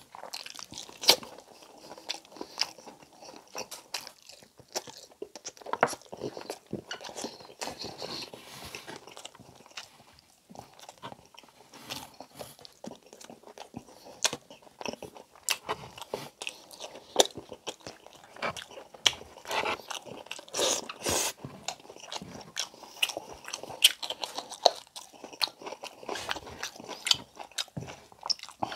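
Close-miked eating sounds: a person biting and chewing pieces of braised pork humba, with a dense, irregular run of sharp crunchy clicks.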